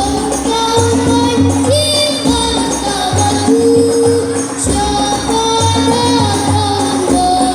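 Banjari music: a solo voice sings a long, ornamented devotional melody over a steady rhythm of rebana frame drums.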